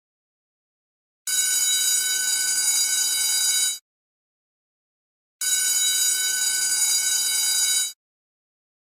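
School bell ringing in two bursts of about two and a half seconds each, with complete silence before and between them, a steady, high-pitched ring.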